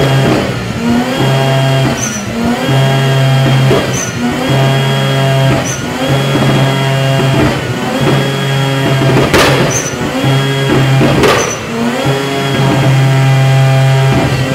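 Datsun 510's turbocharged rotary engine being revved repeatedly with the hood up. It holds a steady high pitch, dipping and climbing back about every two seconds, with two sharp loud bursts about two-thirds of the way through.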